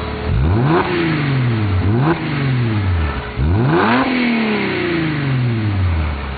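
Mercedes-Benz W207 E350's V6 engine revved through its new custom centre-to-rear exhaust: a rev up and back down, a short blip, then a second rev that falls slowly back to idle.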